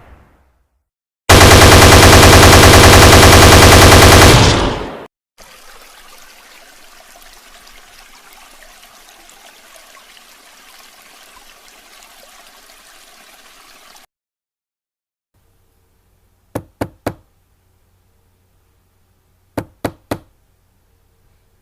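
A string of short sound-effect clips played one after another: a loud, rapid rattling burst lasting about three and a half seconds, then a faint steady hiss, then three sharp knocks heard twice with a pause between.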